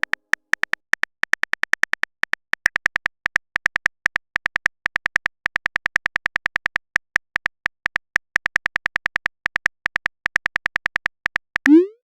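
Chat app's typing sound effect: a fast, uneven run of short high electronic blips, several a second, one per typed character. Near the end comes a quick rising swoop as the message is sent.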